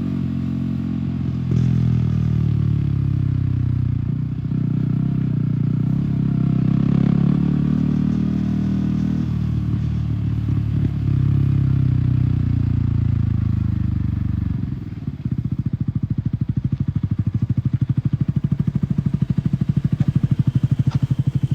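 Yamaha R15 single-cylinder engine with an aftermarket MTG exhaust, revs climbing and dropping several times. From about fifteen seconds in it settles into an even, pulsing low-rev beat.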